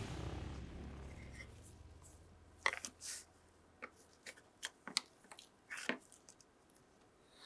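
A low music note fades out. Then come scattered small clicks and snips at irregular intervals, from hands working with small tools and parts on a miniature model truck.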